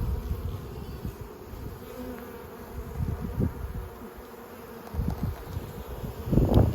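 Honeybee swarm buzzing in a steady hum, with irregular low rumbles on the microphone that are loudest near the end.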